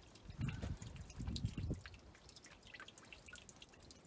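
Diesel fuel dripping from a drained tractor fuel filter, many small drip ticks throughout, as the filter is being drained for a change. Two louder low dull thumps come about half a second and a second and a half in.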